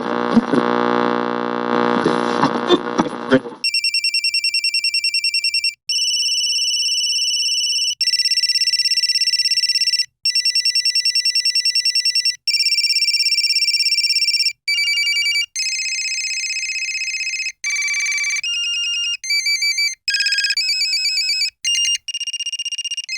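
A run of different electronic telephone ringtones, one after another, each a high pulsing trill lasting one to two seconds, beginning about four seconds in. Before them comes a short, different pitched sound.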